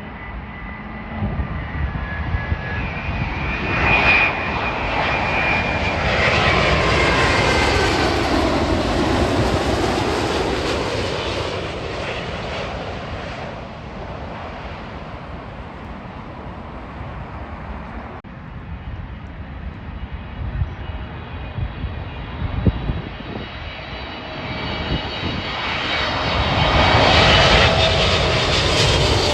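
Jet airliner passing overhead, the engine whine falling in pitch as it goes by. A second aircraft's engines grow louder near the end.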